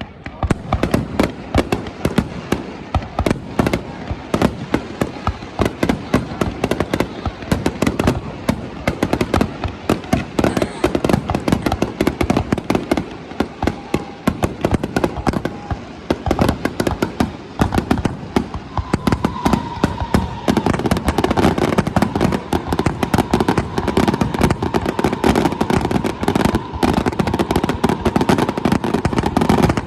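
Fireworks going off in a dense barrage, many bangs and crackles a second with no pause. A steady high tone joins in about two-thirds of the way through.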